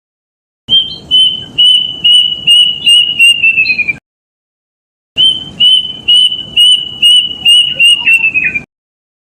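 Kedasih, a Cacomantis cuckoo, calling twice. Each phrase is a run of about eight clear whistled notes, level at first, then quickening and dropping in pitch at the end.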